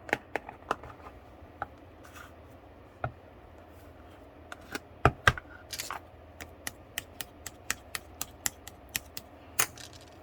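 Soothing-gel slime being squeezed and pressed by hand, giving a string of sharp clicks and pops, irregular at first and then a fairly even two or three a second.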